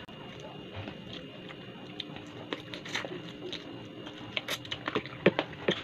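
Close-up chewing and wet mouth clicks of a person eating rice and chicken by hand. The clicks are sparse at first, then come quicker and louder in the second half.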